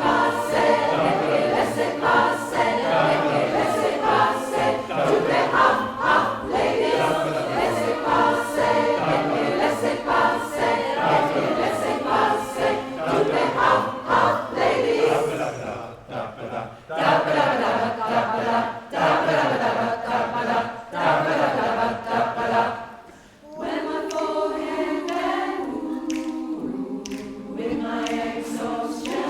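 Amateur community choir singing together in harmony. The singing drops away briefly after about 23 seconds and comes back as slower, held chords.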